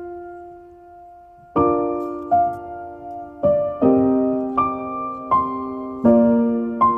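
Background piano music: a held note fades away, then a slow melody of single struck notes resumes about a second and a half in.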